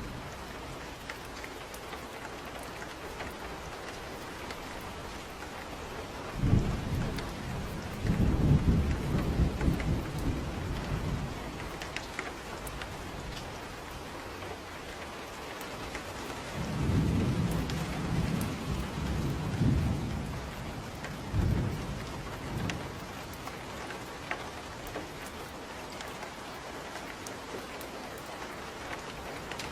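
Steady rain falling, with two long rolls of low thunder: the first begins about six seconds in and rumbles for several seconds, the second comes just past the middle.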